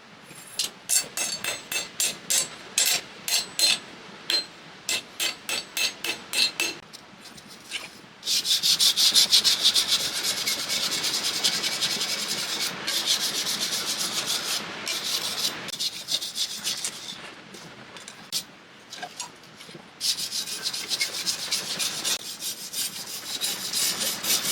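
Hand strokes scraping and rasping across the forged spring-steel blade, as with a file or wire brush: separate strokes about two a second, then about eight seconds in a stretch of fast continuous scrubbing, then separate strokes again.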